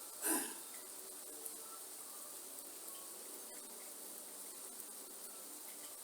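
Rainforest ambience: a steady high hiss of rain and insects, with a few faint bird chirps. One brief louder hit, like a drop or splash near the microphone, stands out about a third of a second in.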